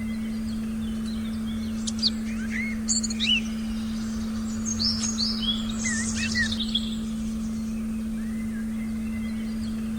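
Forest birds chirping in short rising and falling calls, busiest between about two and seven seconds in. Underneath them, a steady low electronic tone from the meditation frequency track holds without change.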